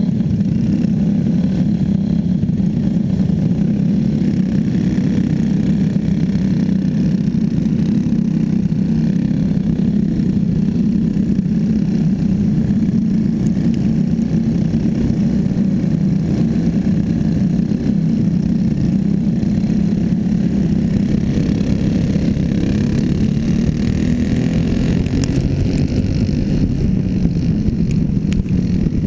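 Small racing engine of the clone class running steadily at high speed during a heat race, a continuous drone with only slight rises and dips in pitch.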